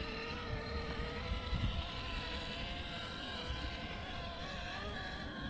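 Electric motor and gearbox of an RC rock crawler whining steadily as it crawls up a slippery climb, the pitch wavering a little with the throttle, over a low rumble.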